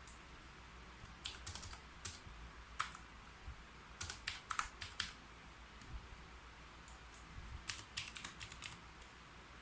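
Typing on a keyboard: short runs of quick keystroke clicks with brief pauses between them.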